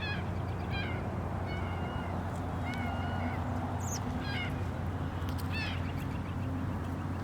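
Canada geese honking: about seven short, separate calls spread across a few seconds, with a thin high whistle from another bird near the middle, over a steady low hum.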